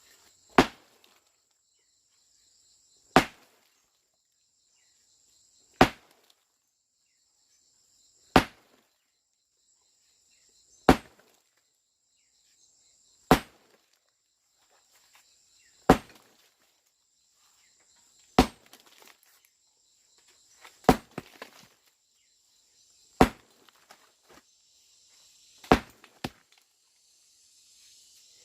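A tool striking hard at a steady pace, eleven heavy blows about two and a half seconds apart, with a steady high buzz underneath.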